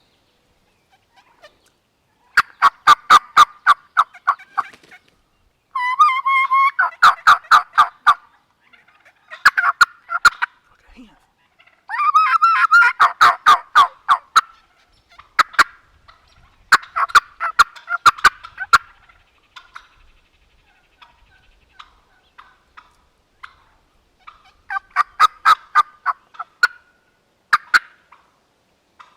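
Wild turkeys gobbling close by: a series of loud, rapid rattling gobbles, about six in all, with short pauses between them.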